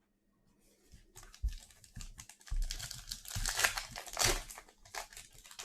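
Trading card pack wrapper being torn open and crinkled: a dense, crackly run of crinkles and small clicks that starts about a second in and peaks near the middle.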